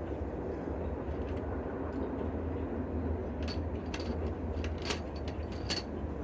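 A few separate light clicks from handling metal tool parts, over a steady low background hum; the impact wrench is not running.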